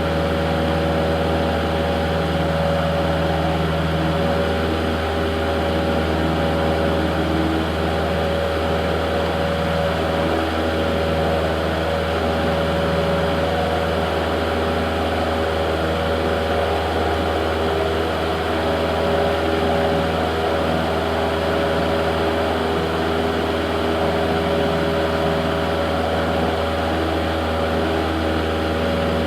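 Cessna 172's piston engine and propeller running at a steady drone, heard inside the cockpit.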